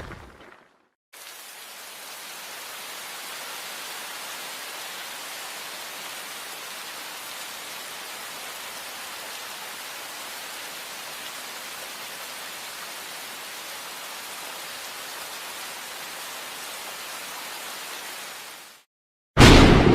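Steady rain sound effect, an even hiss of rain falling on a surface, fading out about a second before the end. A loud thunderclap breaks in suddenly near the end, and the tail of a boom dies away at the very start.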